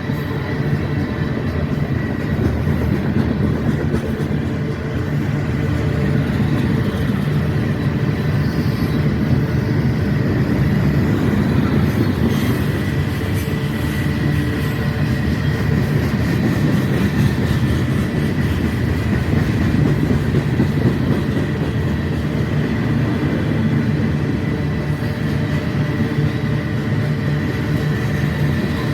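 Train passing at close range: a steady loud rumble of wheels on rails, with a faint steady high whine running over it.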